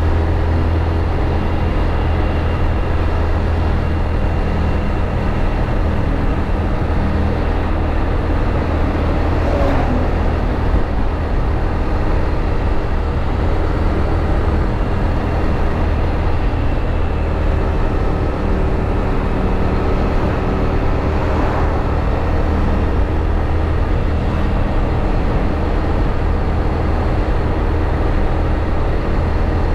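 Motorbike riding: steady engine drone with wind and road noise and a constant low rumble. Two brief falling sweeps come about ten and twenty-one seconds in.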